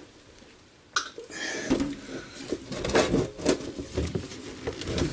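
Hand tools and plumbing parts being handled: a sharp click about a second in, then a busy run of irregular clicks, knocks and scraping.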